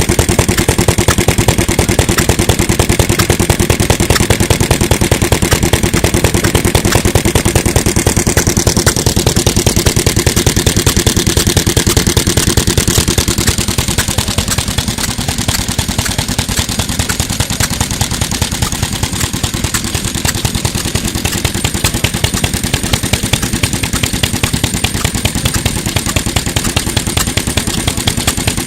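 Single-cylinder, hopper-cooled Mitsubishi Katsura J1 stationary kerosene engine (398 cc, about 1955) running steadily with a rapid, even firing beat, a little quieter from about halfway through.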